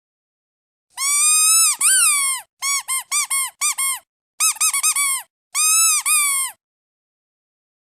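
A squeaky duck toy squeezed repeatedly. First comes one long squeak, then four short ones, then a quick run of about five, then another long squeak; each squeak arches up and down in pitch.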